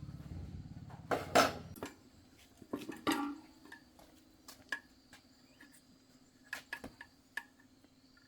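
A low, rapidly pulsing machine hum that stops about two seconds in, with metal clanks and clicks from tools or parts being handled; the loudest clanks come about a second and a half and three seconds in.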